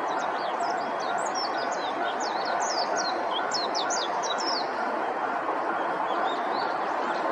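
Warbling white-eye (mejiro) singing: a quick jumble of short, high twittering notes for about four and a half seconds, then fainter notes near the end, over steady background noise.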